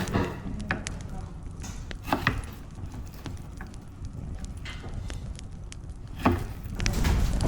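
Scattered knocks and light clatter over a low background rumble, with a clear knock about two seconds in and louder knocking near the end.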